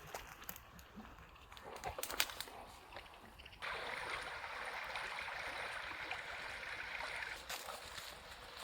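A few light clicks and knocks, then water poured in a steady hissing stream that starts suddenly a little past halfway and stops about four seconds later.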